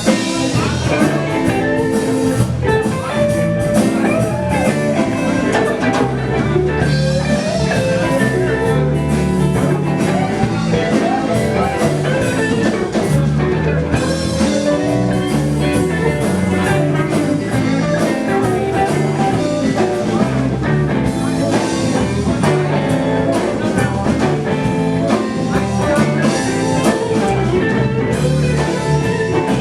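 Live blues band playing a song, with guitar over a steady bass line and drum kit.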